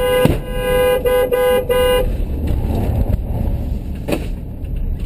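Car horn honking: one longer blast followed by three short toots within the first two seconds, over the steady low rumble of engine and road noise.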